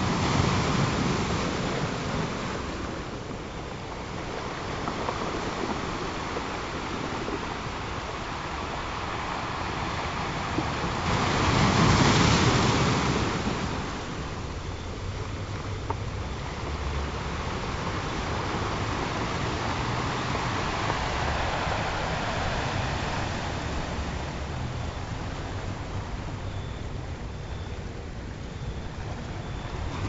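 Ocean surf: waves breaking and washing in continuously, swelling and easing, with one bigger wave surging about twelve seconds in.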